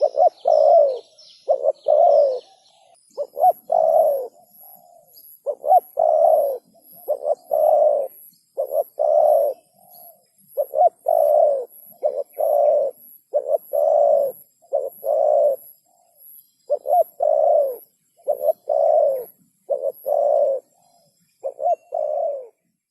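Spotted dove cooing over and over in short phrases of two or three low, throaty coo notes with brief gaps between phrases. Faint high chirps of a small bird in the first couple of seconds, and a faint high regular ticking from about three seconds in.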